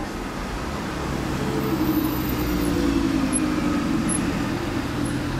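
A car engine pulling away, getting louder about a second and a half in, its pitch rising slightly and then dropping, over steady street traffic.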